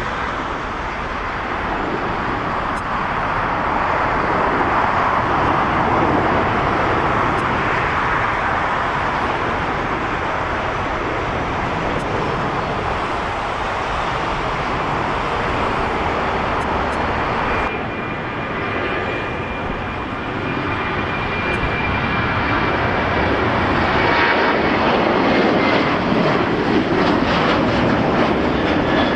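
Jet airliner engines, a loud continuous rush, changing suddenly about two-thirds of the way through and then carrying a faint high whine.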